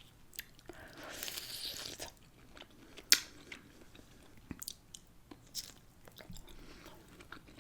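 Close-miked eating sounds: a person biting and chewing food, with scattered sharp clicks, the loudest about three seconds in.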